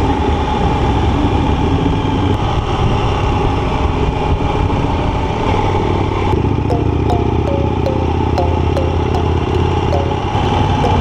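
A motorcycle running steadily on the road. About six seconds in, a regular ticking with short repeated beeps joins it.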